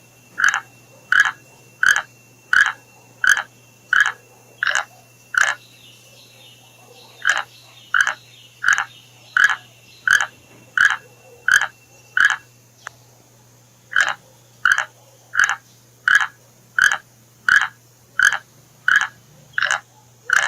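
An animal calling: short, loud calls repeated at a steady rhythm of about three every two seconds, in runs broken by a pause about six seconds in and another about thirteen seconds in.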